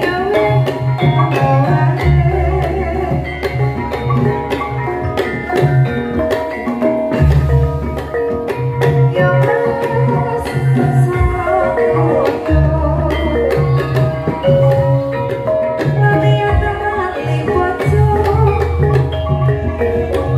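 Javanese gamelan music: metallophones ringing sustained notes over rapid hand-drum strokes and a low repeating drum pattern, which drops out briefly a few times.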